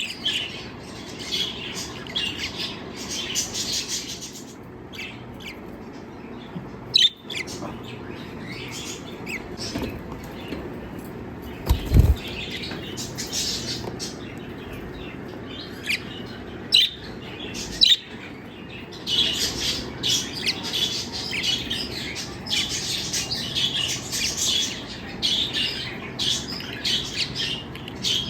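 Pet lovebirds chirping and chattering in many short, high calls, with a few sharp thumps here and there.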